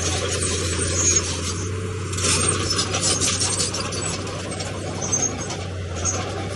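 Crawler bulldozer working: its diesel engine runs steadily under a constant clatter of steel tracks, with scraping clicks and a few brief high squeals.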